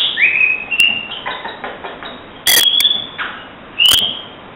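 A man imitating a flock of small birds with his mouth: quick high chirps and short rising whistled notes, with sharp clicks in between, coming in a few bursts.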